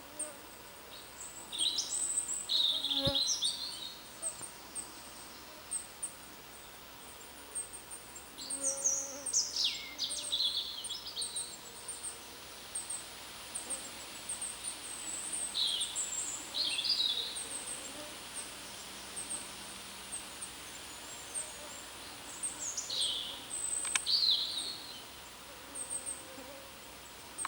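Wild birds singing: a louder, falling song phrase comes about every six to seven seconds over a steady stream of very high, thin chirps.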